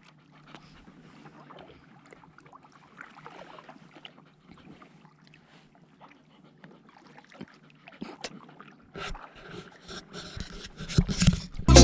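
A wire-haired pointing griffon dog panting faintly, with a few knocks and handling sounds from about nine seconds in; music starts at the very end.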